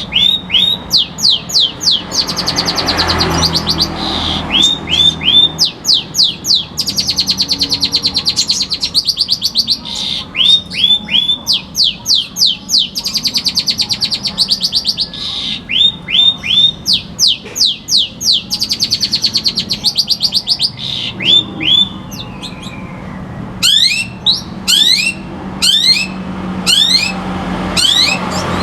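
White-rumped shama (murai batu) singing a loud, varied song: quick runs of sharp whistled notes that sweep downward, alternating with fast rattling trills.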